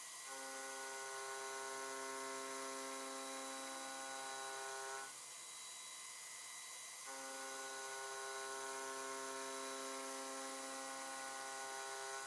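Stepper motors of a home-built CNC milling machine whining in a steady chord of tones as the axes move while milling a bearing seat; the whine stops for about two seconds midway and then resumes, over a constant high hiss.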